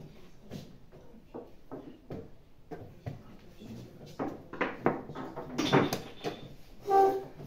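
Quick taps and clacks of chess pieces set down on boards and chess clock buttons being hit during blitz play, growing busier and louder after about four seconds. A brief pitched sound stands out near the end.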